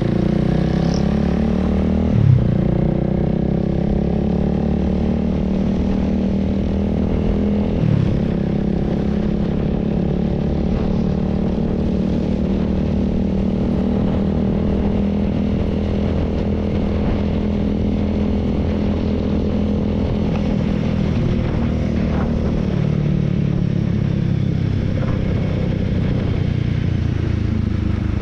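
Honda Rebel 300's single-cylinder engine running at a steady cruise, its pitch drifting gently with small throttle changes. There is a short knock about two seconds in and a softer one about eight seconds in.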